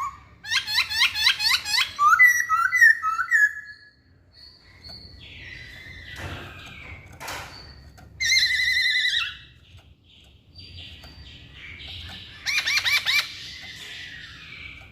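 Masked laughingthrush singing loud whistled phrases. It opens with a fast run of rising notes, then varied notes; after a quieter stretch with one short knock it gives a falling phrase about eight seconds in and another fast run of notes near the end.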